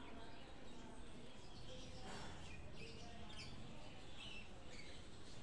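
Birds chirping: several short, high chirps scattered through, over faint low background noise.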